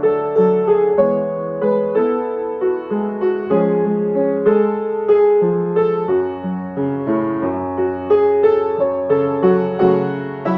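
Piano music: a slow melody over held lower notes, a new note struck about twice a second.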